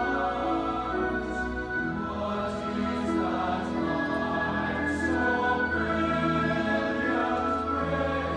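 Mixed choir singing a slow carol with orchestral accompaniment, sustained chords moving every second or so.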